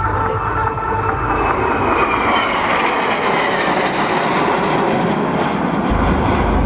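Northrop F-5E Tiger II jet flying past. Its twin turbojets give a loud rushing noise with a whine that falls in pitch as it passes.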